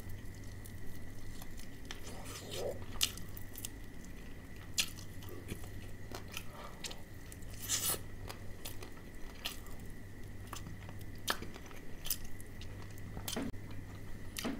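A person chewing crispy fried chicken close to the microphone, with irregular sharp crunches of the fried coating, a few louder than the rest. A faint steady hum runs underneath.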